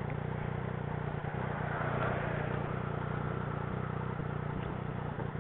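Motorcycle engine idling steadily, with a faint hiss that swells briefly about two seconds in.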